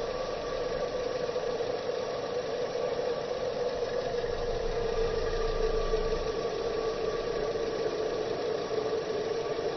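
A steady mechanical hum, like an engine running at constant speed, with a held mid-pitched tone over a low rumble.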